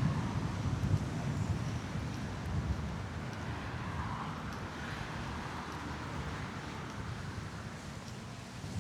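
Wind buffeting the microphone with a gusty low rumble over the hum of city traffic. A vehicle swells past and fades about four to six seconds in.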